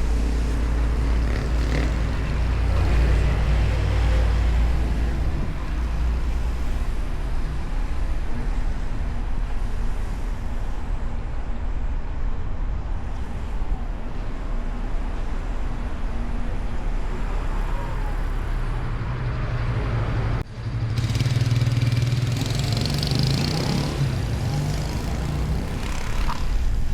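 Car driving through city traffic, with steady engine and road rumble heard from a hood-mounted microphone. About twenty seconds in, the sound dips out for a moment, then a louder low rumble follows for a few seconds.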